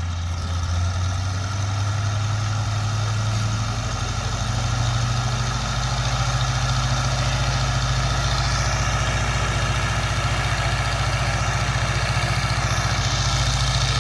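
Stearman biplane's radial engine running during its pre-flight run-up, the revs rising about four seconds in and then holding steady at the higher speed.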